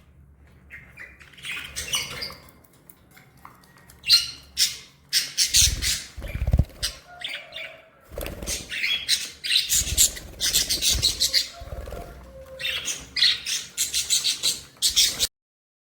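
Budgerigars chirping and chattering in quick, squawky bursts, with a couple of dull thumps among them about six and eight seconds in. The chatter stops abruptly just before the end.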